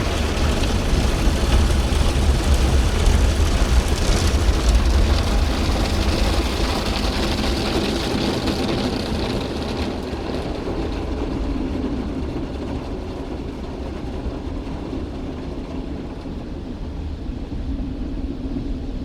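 Christ Auto-Jet C115 gantry car wash working over the car, heard from inside the car: a steady rush with a deep rumble that fades out about halfway, the whole sound slowly getting quieter.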